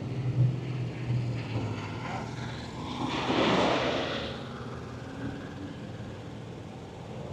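A vehicle engine running with a low steady hum, then a swell of noise that rises about three seconds in and fades away as a vehicle passes by.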